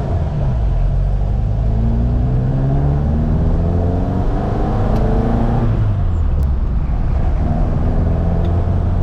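1975 Ford Mk1 Escort's four-cylinder engine pulling hard, its revs climbing steadily for about five and a half seconds. The revs then fall sharply and it runs on at a lower, steady pitch.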